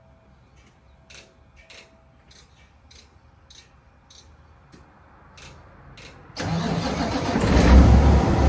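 An engine starting: after several seconds of faint scattered clicks, it comes in suddenly a little over six seconds in and runs loudly, growing louder toward the end.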